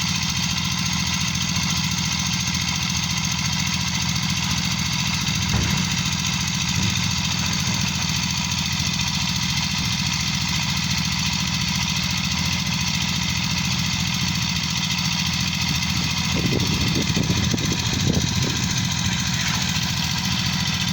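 Diesel engine of heavy roadwork machinery running steadily, with a rougher, louder stretch a few seconds before the end.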